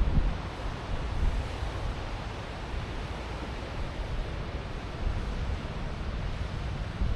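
Ocean surf washing on the shore, a steady rushing hiss with a low rumble from wind on the microphone. The wash eases off about half a second in, after a louder wave.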